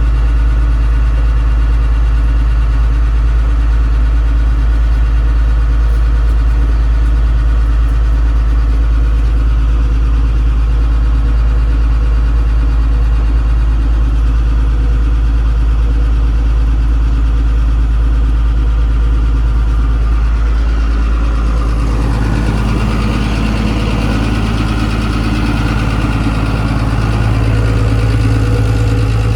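Isuzu 6BD1 inline-six diesel engine of a Hitachi UH06-5 hydraulic excavator running steadily. Its note shifts and grows fuller about two-thirds of the way through.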